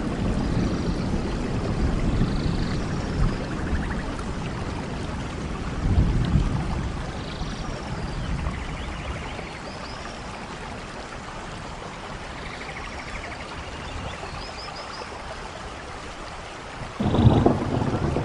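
Steady rain with rumbles of thunder: one about six seconds in, and a louder, sudden one near the end.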